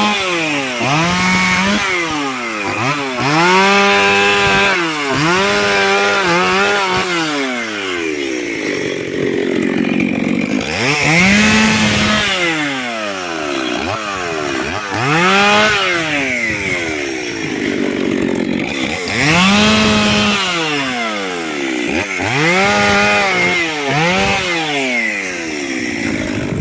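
Chainsaw cutting wood, its engine revving up and dropping back again and again, about every one to two seconds, as the chain bites and is eased off.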